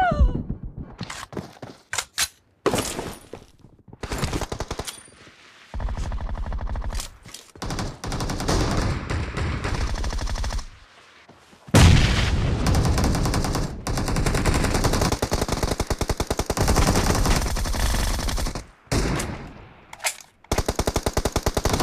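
Rapid automatic gunfire from a video game shooter, in long bursts broken by a few short pauses.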